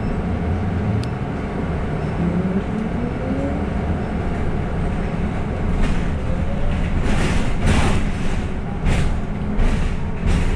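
City bus heard from inside the passenger cabin while driving: a steady low rumble with a whine that rises in pitch twice as it gathers speed, then several short hissing bursts in the second half.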